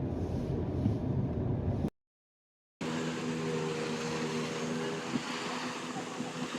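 Low steady road rumble inside a moving car. After a brief dropout, a steady hum of several held tones over a hissing background.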